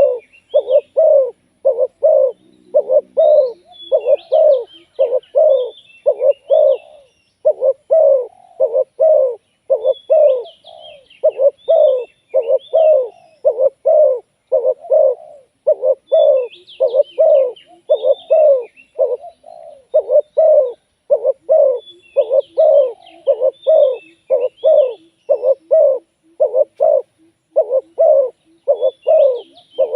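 Spotted dove cooing over and over in loud, quickly repeated phrases of low coo notes, a live decoy bird calling. Small birds chirp faintly higher up, and a fainter, lower run of coos comes in now and then.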